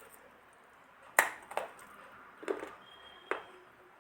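Multani mitti (fuller's earth clay) being bitten and crunched: a sharp snap about a second in, a softer crunch just after, then a duller crunch and another crisp snap later.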